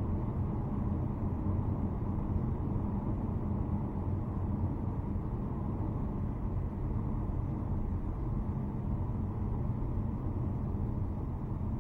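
Steady road and engine noise of a car being driven at a constant speed.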